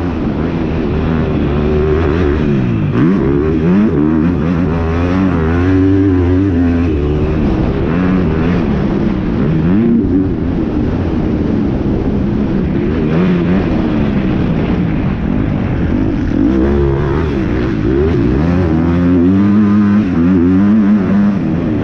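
Motocross dirt bike engines revving hard, their pitch rising and falling again and again with the throttle, with several pitch sweeps overlapping at times.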